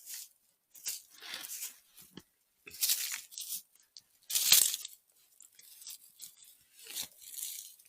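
Crunching and rustling of dry forest litter, twigs and leaves underfoot, in uneven bursts about once a second, as of someone walking slowly through brittle, dry woodland undergrowth.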